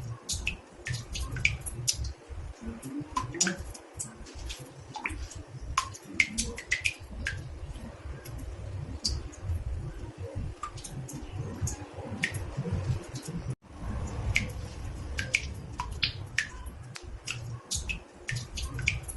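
Water drops falling into a bathtub: irregular plinks and plops, several a second, over a low rumble. The sound cuts out for an instant about two-thirds of the way through.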